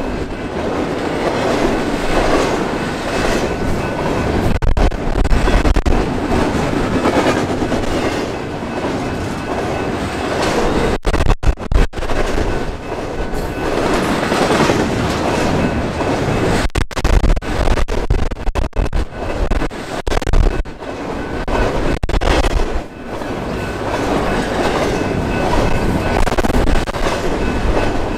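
Train rolling past, its wheels clattering over the rails, with gusts of wind buffeting the microphone.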